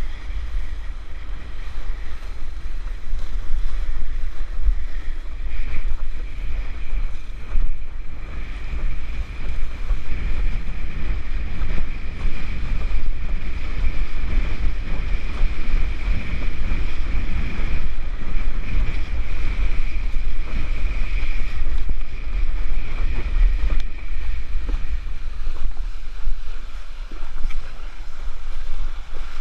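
Wind buffeting the microphone on a moving sailboat, a heavy constant rumble, over the rush of water along the hull. A faint steady high whine runs through the middle stretch.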